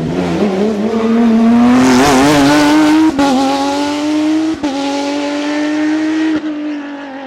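Rally car engine at high revs under hard acceleration, its note climbing slowly and holding high, with two brief dips about three and four and a half seconds in, then easing off near the end.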